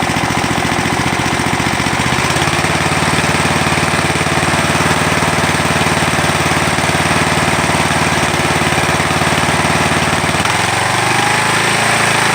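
Poulan lawn tractor engine running steadily, freshly cold-started after sitting all winter. Its note changes about two seconds in, and again near the end, where it rises as the engine speeds up.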